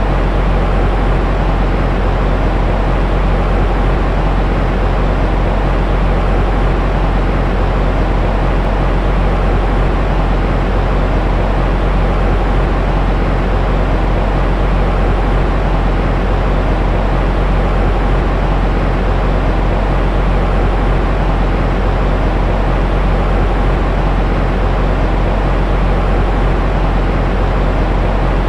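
Steady, unchanging white noise, heaviest in a deep low rumble and thinning out toward the top, with no breaks or events.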